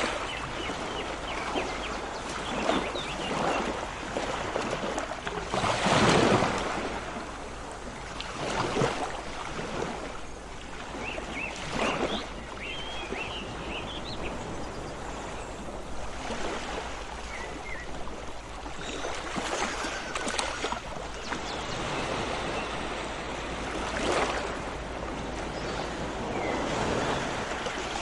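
Sea waves washing in and drawing back in slow surges, with short bird chirps now and then, a cluster of them around the middle.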